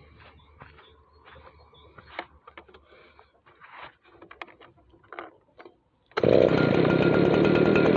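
Light clicks and rattles of a Stihl BG56 leaf blower being handled, then about six seconds in its small two-stroke engine starts suddenly and runs loud and steady.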